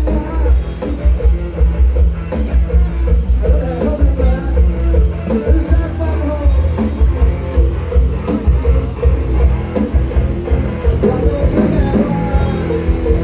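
Loud live band music from a Thai rot hae parade sound truck: a heavy, pounding bass and drum beat under a plucked-string lead melody, with some singing.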